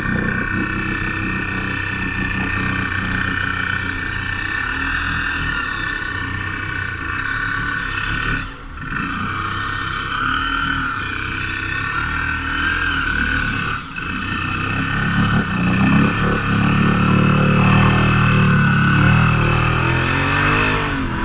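Off-road vehicle engine running under way, heard from a helmet-mounted camera. The throttle briefly drops twice, about 9 and 14 seconds in, then the engine revs up louder near the end.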